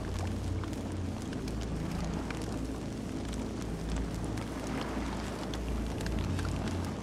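Campfire burning: scattered small crackles and pops over a steady low rumble.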